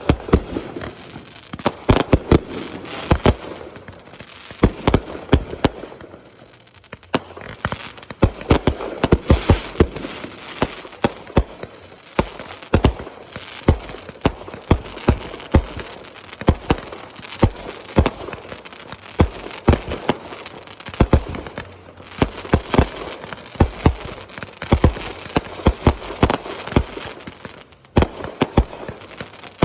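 Consumer fireworks going off in rapid succession: many sharp bangs and crackles, several a second, with hardly a gap.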